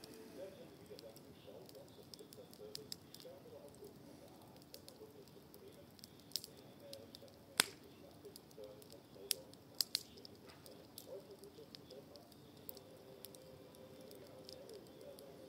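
Wood fire of pruned garden branches burning in a fire bowl, crackling with scattered sharp pops, a few louder ones about halfway through.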